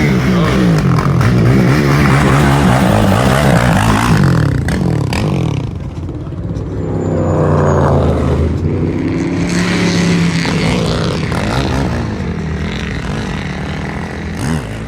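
Car engine revving loudly, its pitch wavering up and down. It eases off about six seconds in, swells and rises again near eight seconds, then slowly fades.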